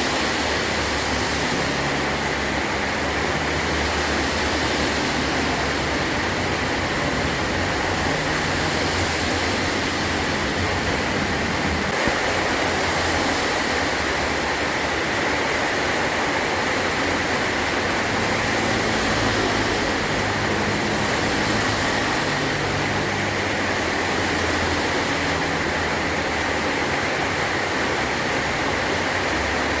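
Heavy rain falling steadily on a tin roof, an even hiss with no let-up.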